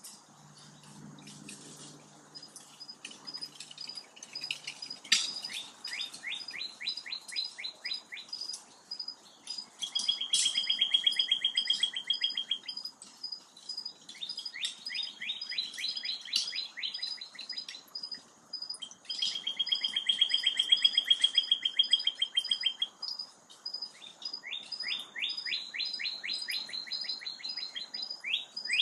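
Songbirds singing: repeated trills of fast notes, some sweeping quickly downward and others held at one pitch, each trill lasting two to three seconds with short gaps between. A faint, steady, pulsing high tone runs behind them.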